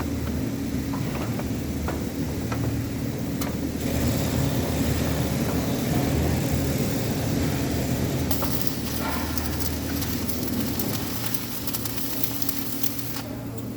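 Electric arc welding: the arc crackles and sizzles evenly from about four seconds in until shortly before the end, over a steady low hum of a running machine.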